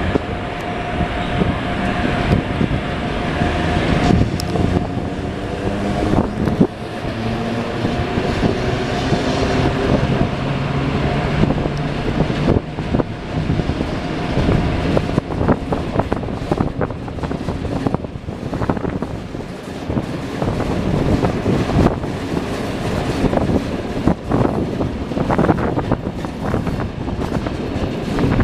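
A train running on the track, with a steady tone in the first few seconds and, later on, a run of short sharp clicks from the wheels over the rails.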